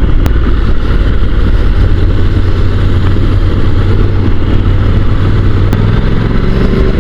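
Honda NC750 DCT parallel-twin engine running steadily while the motorcycle is ridden, with a low rush of wind and road noise; the engine note shifts a little near the end.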